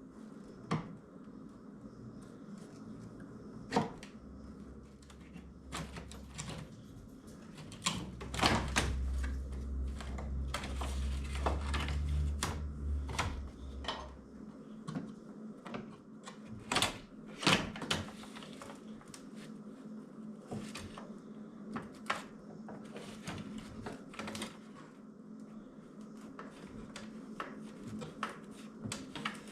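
Scattered clicks, taps and knocks of a stubborn trim clip being worked loose on a car's cowl panel, with a low rumble for several seconds near the middle.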